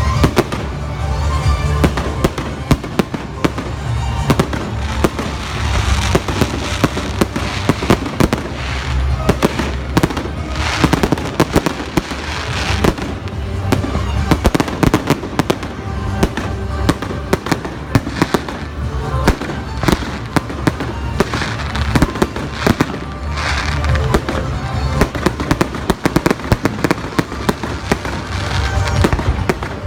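Fireworks display: many shells bursting in rapid succession, with sharp bangs and crackles several times a second, over background music.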